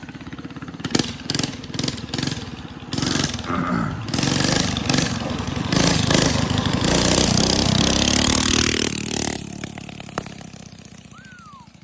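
Minibike's small engine running: a few clicks early, then it revs up and grows loud before fading as it moves away.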